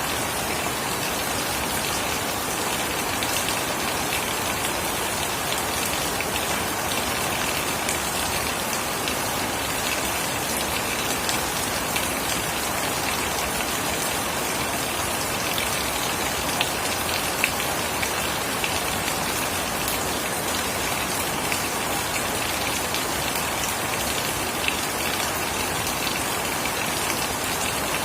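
Steady heavy rain falling on surfaces, an even hiss with scattered sharper drop hits.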